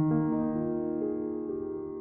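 Background music: a soft keyboard chord struck just before and held, slowly fading, with some notes changing about a second in.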